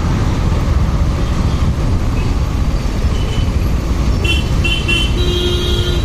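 Steady low rumble of a motorcycle riding in traffic. About four seconds in, a vehicle horn beeps three short times, then gives a longer honk near the end.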